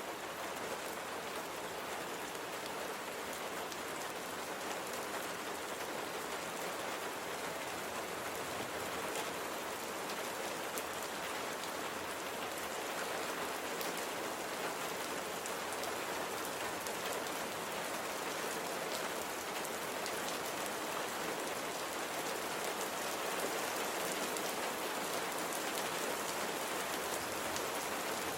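Steady rain falling on a surface, a dense even hiss of drops with fine pattering ticks, growing slightly louder toward the end.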